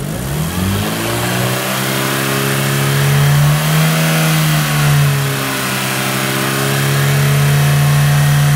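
Volkswagen Golf IV's 1.6-litre AVU four-cylinder petrol engine revving up from idle to about 5000 rpm over the first second and a half, then held steady at high revs, with a brief rise and dip in pitch about four seconds in.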